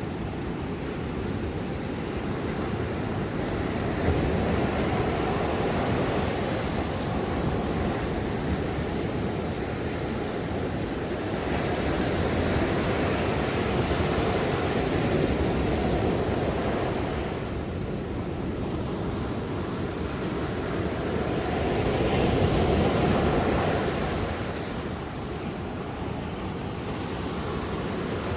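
Ocean waves breaking on a shore: a continuous rushing wash that swells and ebbs slowly, cresting about every six to ten seconds.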